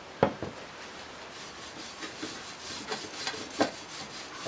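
A sharp knock near the start, then a cloth rag rubbing in short scraping strokes as rust converter is worked over the bare metal of an old scythe blade.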